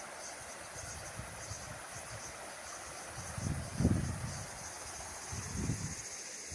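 Insects chirping steadily in the forest, a fast pulsing high-pitched drone, with low rumbles of wind on the microphone about three and a half and five and a half seconds in.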